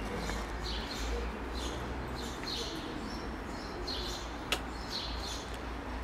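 A small bird chirping over and over, short high chirps every half second or so, over steady street background noise. A single sharp click comes about four and a half seconds in.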